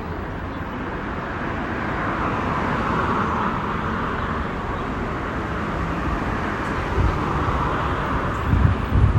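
Road traffic noise, a steady rush of vehicles on the road that swells twice as they pass. Near the end, gusts of wind buffet the microphone.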